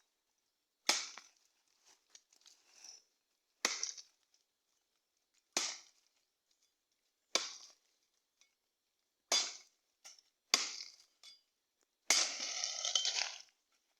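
Blade chopping into a woody water vine (liana): six sharp single blows about every one and a half to two seconds, then a longer, rougher sound of over a second near the end as the vine gives way.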